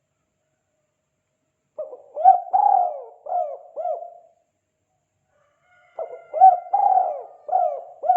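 Spotted dove (tekukur) cooing its 'kuk 2' call: two phrases of about five coos each, the first about two seconds in and the second near the end.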